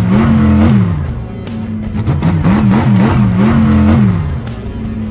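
Cartoon engine-revving sound effects mixed with background music, the pitch rising and falling in a repeating pattern.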